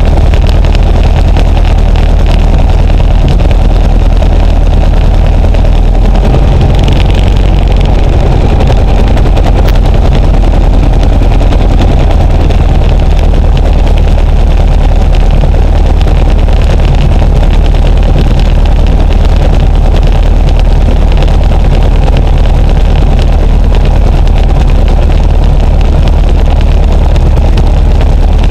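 Luscombe light aircraft's piston engine running steadily, with a small shift in its note about six or seven seconds in.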